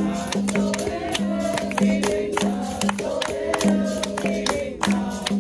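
Capoeira roda music: a berimbau's twangy repeated tone and pandeiro strokes keep a steady rhythm while a group of voices sings the chorus.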